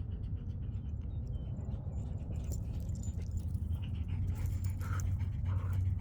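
A retriever panting, with a few short whines over the last couple of seconds, above a steady low rumble.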